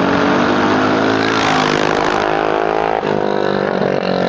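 Mini bike's small engine revving under throttle. Its pitch climbs over the first second and a half, holds, then falls back abruptly about three seconds in as the throttle eases.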